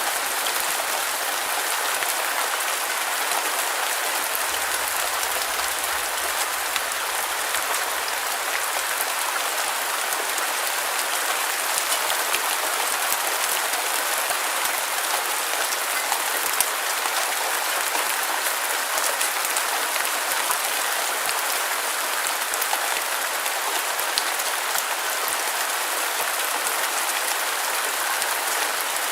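Steady rain falling on a surface, a dense even patter with many small drops ticking through it.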